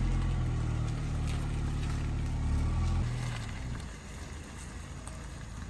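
Car engine running steadily, then easing off and getting quieter about three seconds in.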